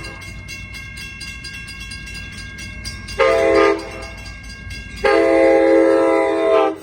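Amtrak passenger train's horn sounding at a grade crossing: a short blast about three seconds in, then a long blast about five seconds in, the end of the crossing signal. Under it the crossing bells ring steadily.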